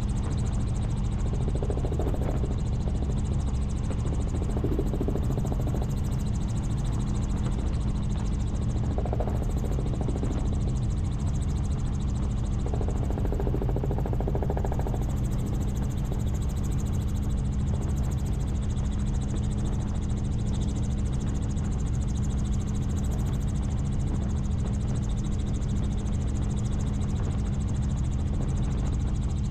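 Helicopter in steady flight: its rotor and engine noise make a constant low drone with a fixed hum running through it.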